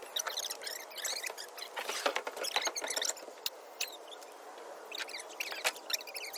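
Many quick, high-pitched chirps and squeaks overlapping one another, with a few sharp clicks among them.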